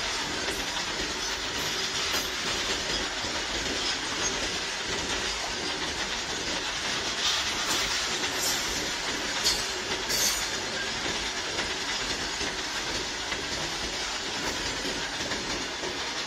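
Indian Railways freight train of covered goods wagons rolling past: steady wheel and rail noise with clickety-clack over the rail joints, and a few sharper clicks about halfway through.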